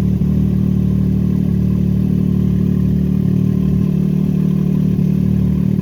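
Can-Am Maverick X3 Turbo RR side-by-side's turbocharged three-cylinder engine running loud and steady at an even pitch.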